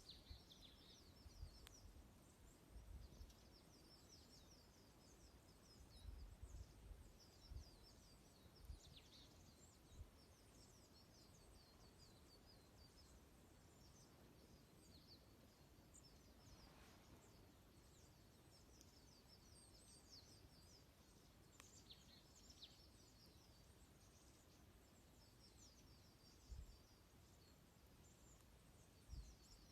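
Faint high twittering of a flock of small birds, many short chirps repeating throughout, with a few soft low thumps near the start and near the end.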